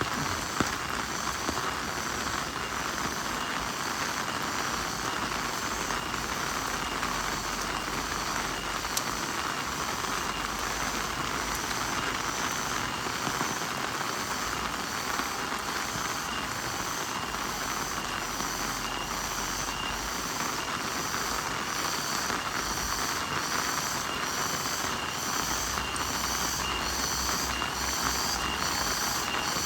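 Steady heavy rain falling on foliage, with a faint, regular high-pitched pulsing and a couple of sharp pops.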